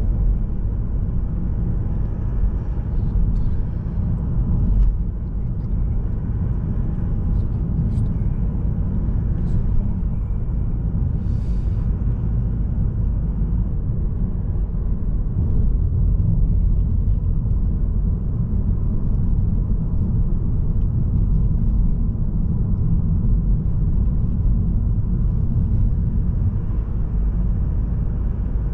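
Mazda3 SKYACTIV-D 1.8 diesel sedan driving along, heard as a steady low road and tyre rumble. There are a few faint ticks in the first dozen seconds.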